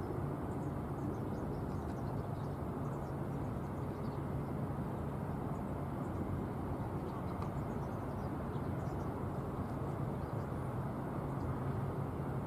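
Distant jet aircraft engines running with a steady low rumble and an even hum, with faint bird chirps over it.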